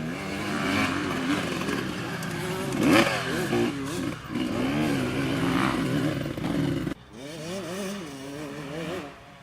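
Motocross motorcycle engines revving up and down as the bikes ride the track, loudest about three seconds in. The sound drops suddenly about seven seconds in, then engines go on revving more quietly.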